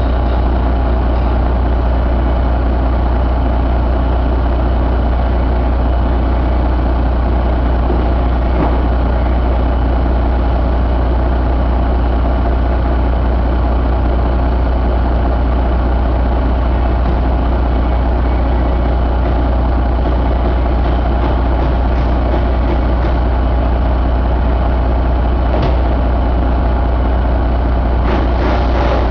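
1997 Detroit Diesel Series 60 12.7-litre inline-six diesel engine idling steadily at an even speed, with a few faint clicks over the top.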